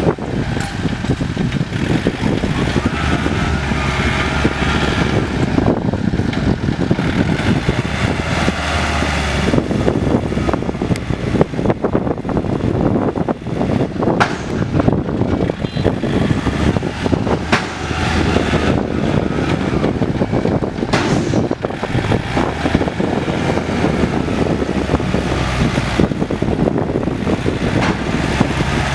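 Diesel farm tractor engines running steadily as the tractors push soil, with scattered knocks and rattles.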